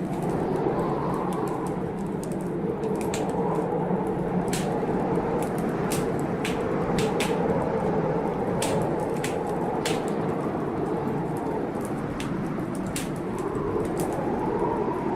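Wood fire crackling, with sharp irregular pops, over the steady rush of a storm.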